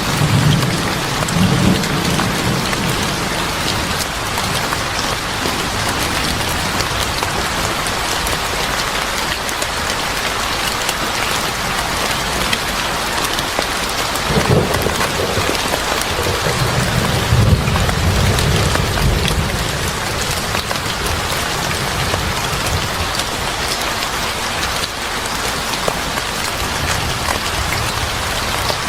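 Steady, heavy rain falling, with low rolls of thunder right at the start and again a little past halfway, lasting several seconds.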